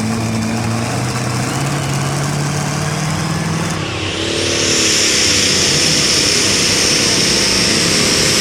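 Turbocharged super stock pulling tractor engine running at a steady, lower note, then revving up hard about four seconds in, with a high whine rising over the engine.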